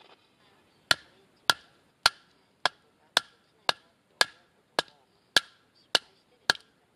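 Wooden baton knocking on the back of a blade driven into an upright split of firewood, batoning it into kindling: eleven sharp, evenly paced knocks, about two a second, starting about a second in.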